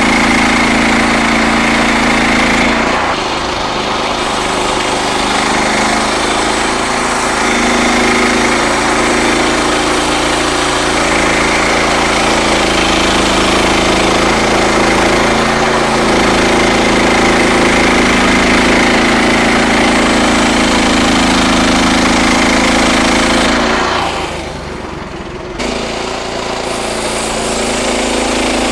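Frontier OS31 portable bandsaw sawmill running, its gas engine working steadily under load as the band blade cuts through a red oak log. The sound drops briefly about 24 seconds in, then comes back up.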